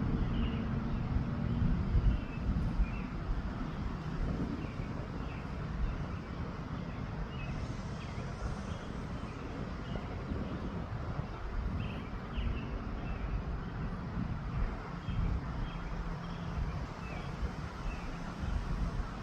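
Wind buffeting the microphone in an uneven low rumble, with faint short chirps of small birds throughout.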